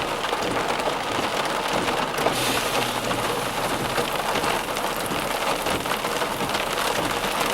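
Steady heavy rain falling on a car, a dense even patter of drops.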